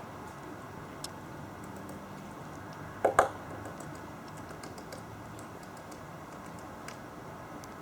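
Great spotted woodpecker pecking: scattered, irregular light taps, with one much louder double knock about three seconds in.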